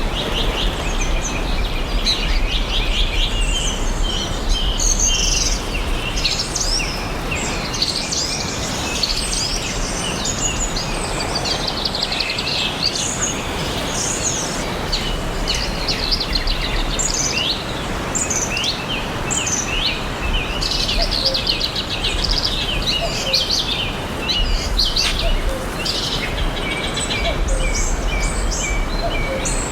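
Many forest birds singing and chirping at once, short calls and fast trills overlapping throughout, over a steady background hiss.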